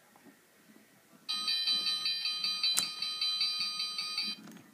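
Toy train set's electronic bell sound effect: a rapid ringing of about five strikes a second that starts about a second in and cuts off suddenly after about three seconds, with one sharp click partway through.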